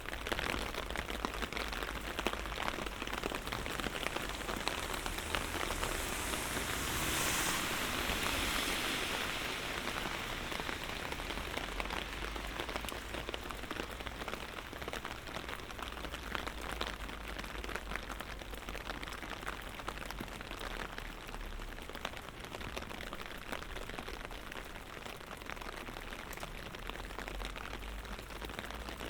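Light rain falling, a steady hiss full of small drop ticks. A louder wash of hiss swells and fades about six to ten seconds in.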